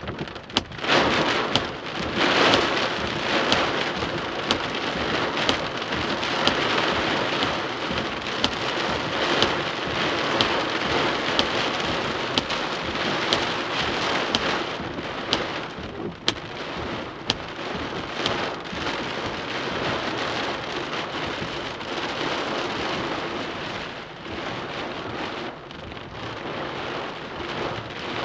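Heavy rain falling steadily in a thunderstorm, with frequent sharp taps of drops striking close by.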